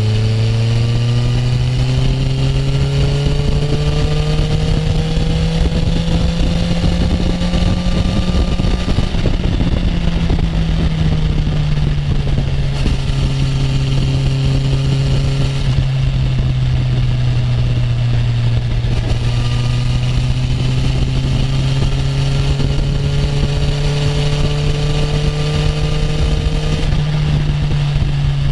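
Honda CB650F's inline-four engine running on the move, its pitch climbing slowly for the first several seconds, dropping around ten seconds in, then climbing again, with a steady rush of wind noise underneath.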